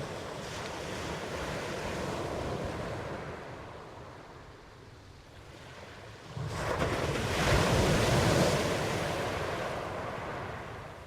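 Ocean surf: waves washing in steadily, easing to a lull, then a wave breaks with a sudden rush about six and a half seconds in, loudest a second or two later, before it slowly draws back.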